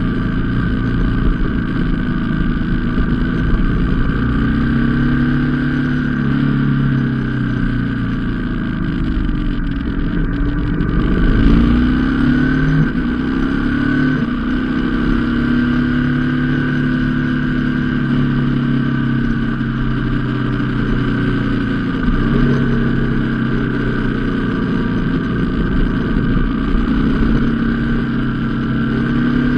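Motorcycle engine running while riding, its pitch rising and falling with the throttle, with a few abrupt pitch drops at gear changes, over a steady low rumble.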